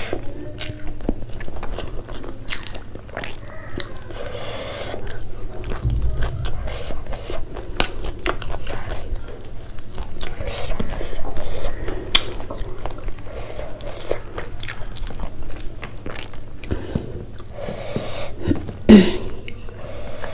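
Close-miked chewing and biting, with wet mouth sounds and crisp crunches, as fried shrimp and rice are eaten by hand. About 19 seconds in comes a brief loud voiced sound from the eater.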